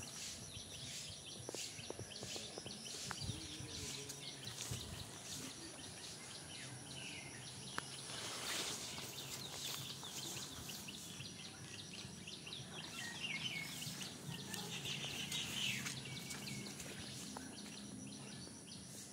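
Faint birds chirping now and then, a few calls gliding up and down, over a steady high-pitched background hiss.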